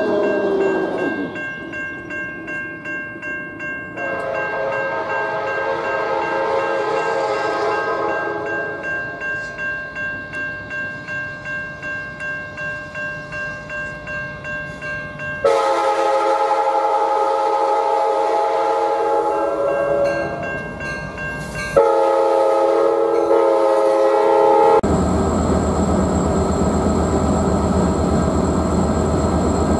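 Diesel passenger train locomotive of the Piedmont sounding its horn in long blasts as it approaches, over a bell ringing about twice a second. About 25 seconds in the horn stops and the locomotive and passenger cars roll past with a steady rumble and a thin high whine.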